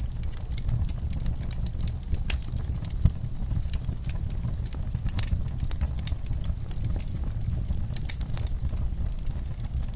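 Wood fire burning in a fireplace: many small irregular crackles and pops over a steady low rumble of flames, with one louder pop about three seconds in.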